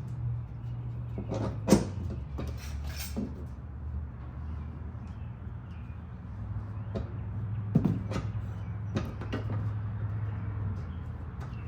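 Several sharp knocks and clanks of tools and metal parts being handled, the loudest about two seconds in and again near eight seconds, over a steady low hum.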